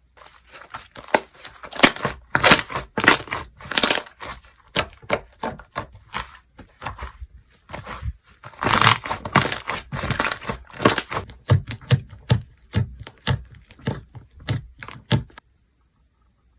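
Slime being squished, pressed and stretched by hand, giving an irregular run of sharp pops, clicks and crackles that stops about a second before the end.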